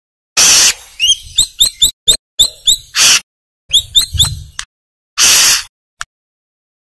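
Brown-throated sunbird (kolibri kelapa) singing: runs of quick, sharp, upslurred chirps broken by three harsh rasping notes, each about half a second long.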